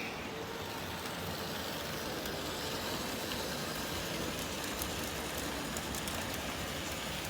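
Märklin HO scale model train running on the track: a steady rolling noise with faint clicks.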